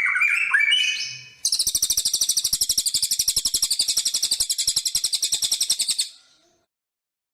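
Recorded songbird song: a few clear whistled notes sliding up and down, then from about a second and a half in a fast, high, rattling trill of many rapid notes lasting about four seconds, which stops abruptly.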